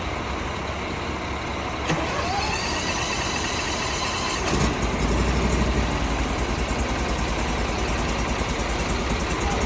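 Heavy truck engines running steadily on a city street, with a sharp knock about two seconds in and the low rumble growing louder about halfway through.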